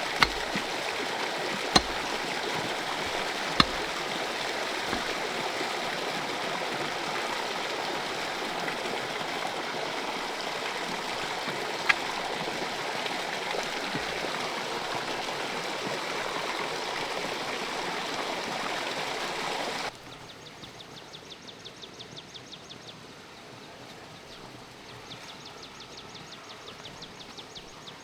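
Water running steadily like a stream, with a few sharp clicks or knocks. About two-thirds of the way in it cuts off suddenly to a quieter scene with rapid, high-pitched chirping trills.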